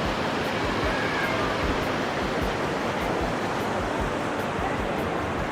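Steady rush of fast-flowing water from a mountain stream, with irregular low thuds.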